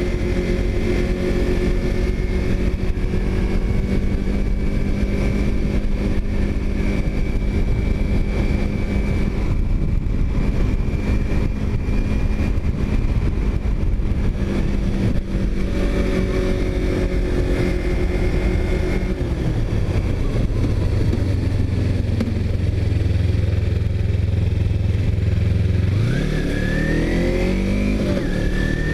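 Motorcycle engine running under way with wind noise, settling to a low steady note about two-thirds of the way through, then revving up with rising pitch near the end as it pulls away.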